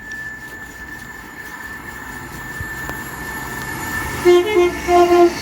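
Northern Class 195 diesel multiple unit approaching with a rising rumble, then sounding its two-tone horn in about four short blasts near the end.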